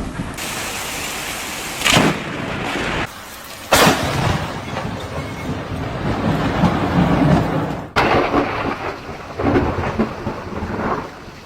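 Thunderstorm: steady heavy rain with two sharp cracks of thunder, about two and four seconds in.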